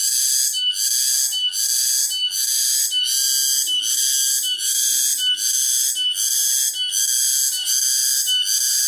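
Cicadas singing loudly: a continuous high-pitched song that pulses about twice a second.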